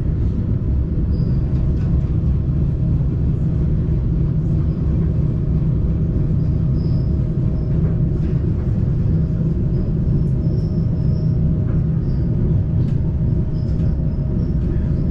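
Rack railway train running, heard from inside the carriage: a steady low rumble with a constant hum and occasional faint, brief high squeaks.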